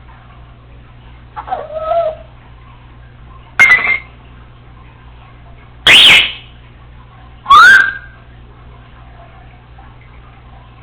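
Congo African grey parrot giving four short whistled calls about two seconds apart, the first softer and the last three loud and sharp, the last sliding up in pitch.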